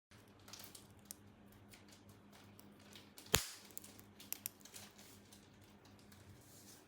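Small plastic toy pieces handled, with light clicks and rustles and one sharp plastic snap about halfway through.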